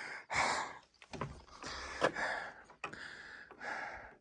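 A hiker breathing hard in a run of short, irregular breaths in and out.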